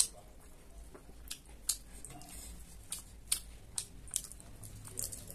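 Crisp crunching of raw cabbage and singju salad: a sharp snap of a cabbage leaf tearing right at the start, then a string of crunchy chewing bites, roughly one every half second to second.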